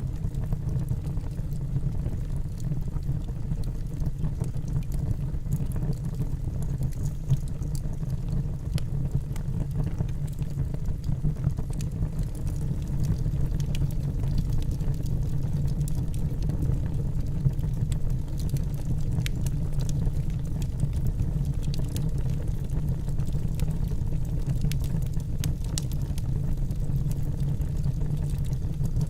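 Logs burning in a fireplace: a steady low rumble of the fire with scattered sharp crackles of the wood.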